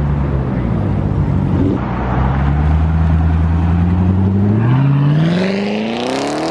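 Chevrolet Corvette ZR1's V8 running at low revs, then accelerating hard, its pitch climbing steadily over the last two seconds.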